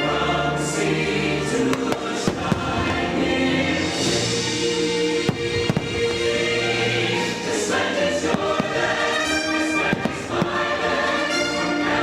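A choir singing with an orchestra, the music of a patriotic fireworks show, with firework bangs going off over it at irregular moments.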